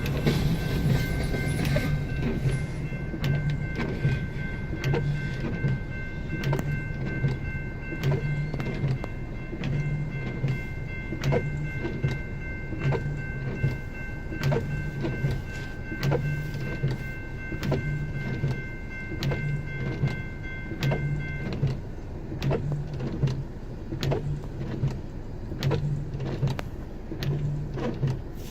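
BNSF freight train cars rolling through a grade crossing, wheels clacking over rail joints in a steady rhythm about once a second. A steady high ringing runs over it and cuts off suddenly about two-thirds of the way through.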